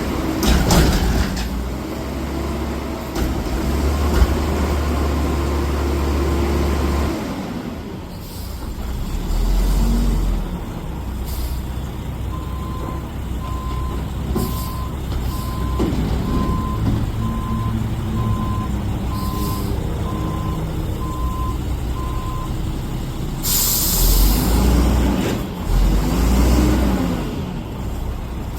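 Garbage truck running, its reversing alarm giving steady beeps about once a second for some ten seconds in the middle. Near the end there is a sharp hiss of air, then the engine revs up and down.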